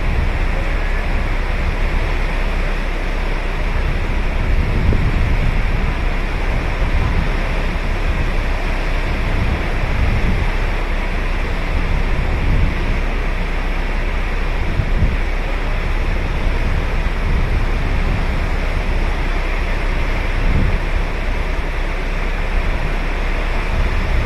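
Ocean waves washing onto a beach in a steady rush of surf, with short low rumbles every few seconds from wind on the microphone.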